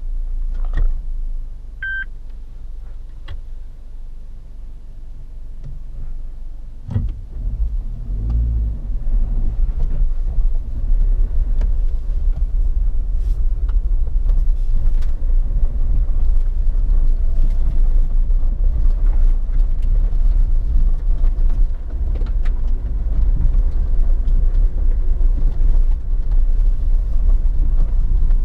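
Suzuki Jimny 1.5 VVT's four-cylinder petrol engine and drivetrain running while driving, a steady low rumble with scattered knocks and rattles. A short beep sounds about two seconds in, and a heavier knock comes near seven seconds. The rumble grows louder from about eight seconds on.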